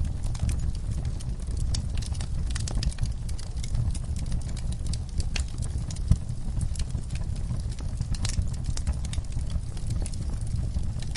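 Wood fire burning in a fireplace: a steady low rumble of the flames with frequent sharp crackles and pops from the burning logs, one louder pop about six seconds in.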